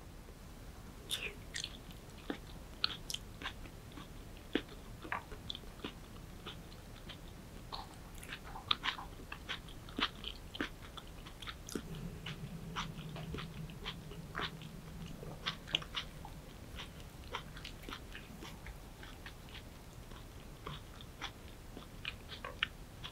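Close-miked biting and chewing of a crispy pan-fried oyster and vegetable pancake (gul jeon): irregular crisp crunches and mouth clicks.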